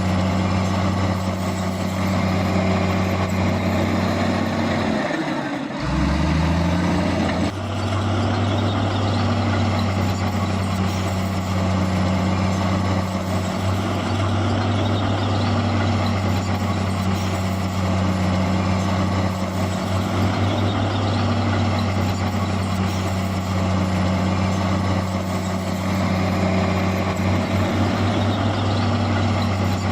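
Heavy diesel engine of earthmoving machinery running steadily under load. About six seconds in, its pitch drops sharply, then climbs back within a second or two.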